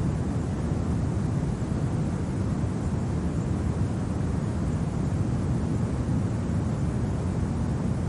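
Steady, low winter wind, an even rumbling noise that neither rises nor falls and has no gusts or crackles in it.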